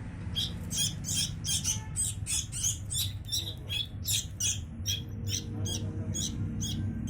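Sooty-headed bulbul nestlings begging for food: short, high, squeaky chirps repeated rapidly, about three a second.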